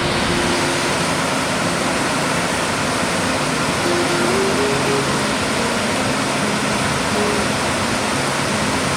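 Steady, dense roar of a large, high-volume waterfall, Chittenango Falls, with water pouring heavily over the drop. Faint background music plays over it.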